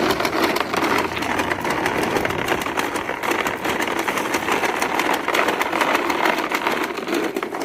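Little Tikes toy push lawn mower being pushed along, its built-in engine noisemaker giving off a fast, steady clatter of clicks.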